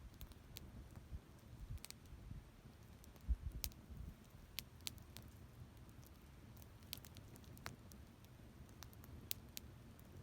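Campfire burning, wood crackling with irregular sharp pops and snaps. A short cluster of low thumps about three seconds in is the loudest moment.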